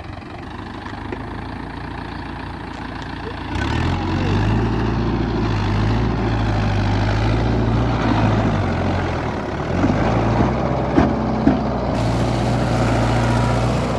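Mahindra Yuvo Tech+ 575 DI tractor's diesel engine running, then pulling harder and louder about three and a half seconds in as it works the tractor through mud. It eases off briefly around nine seconds, then pulls hard again.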